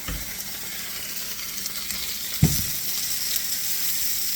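Butterflied chicken frying in a pan, a steady sizzle that swells slightly, with a single dull knock about two and a half seconds in.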